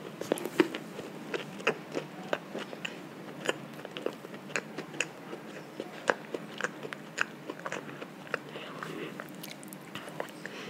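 A child chewing a mini donut with hard, stiff icing, close to the microphone. Irregular small clicks and crunches of chewing and mouth noise.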